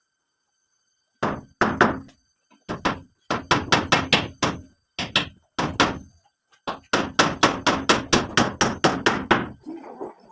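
Hammer blows struck in quick runs of about five a second, starting a little over a second in, with short pauses between the runs.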